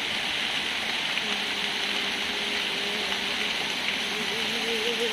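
Steady rush of flowing water, like a stream or small waterfall. A faint pitched hum joins about a second in and wavers near the end.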